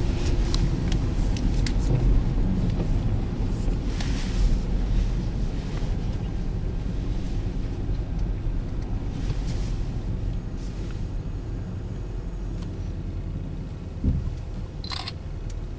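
Steady low rumble of a car driving, heard from inside the cabin, slowly easing off, with a few light clicks and a brief higher-pitched sound near the end.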